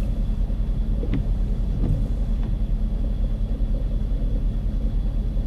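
Steady low rumble of a car being driven: engine hum and road noise.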